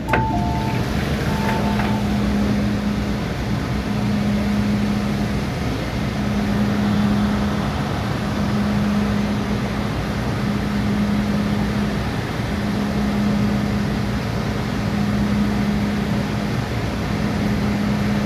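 MTR M-Train electric multiple unit running, heard from inside the car: a steady rumble of ride noise with a low hum that comes and goes every couple of seconds.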